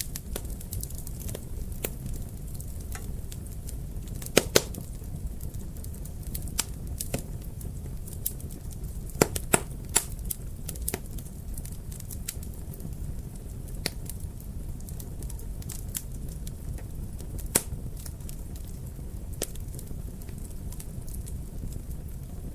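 Wood fire crackling in a fireplace: a steady low rumble of burning with irregular sharp pops and snaps, the loudest coming in clusters about four and a half seconds and ten seconds in.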